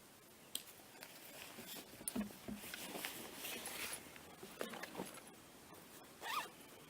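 Faint footsteps and gear rustling of a hiker walking with dogs, a scatter of light crunches and clicks. A short call that rises and falls comes near the end.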